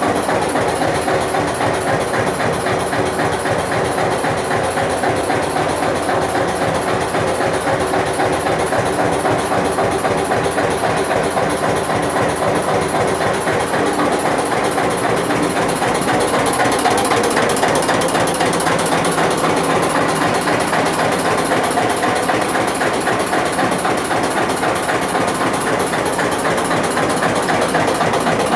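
Old Eicher tractor's diesel engine running steadily with a fast, even knocking beat, getting slightly louder about halfway through.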